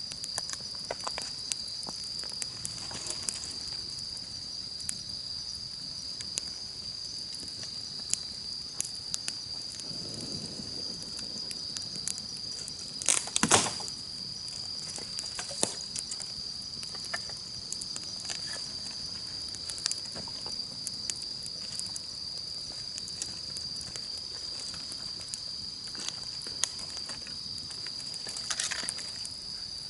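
Wood campfire crackling with scattered sharp pops, including a louder cluster of snaps about halfway through and another near the end. Insects keep up a steady, high-pitched trill behind it.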